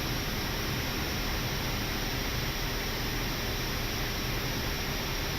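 Steady flight-deck noise of an Airbus A319 on short final: an even hiss of airflow and ventilation over a low rumble, unchanging throughout.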